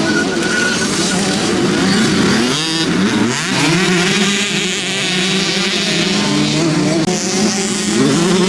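Several motocross bikes racing, their engines revving up and dropping back as they shift and pass, with more than one engine note overlapping.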